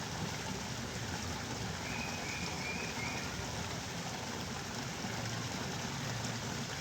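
Steady rush of water. About two seconds in, three short high chirps sound over it.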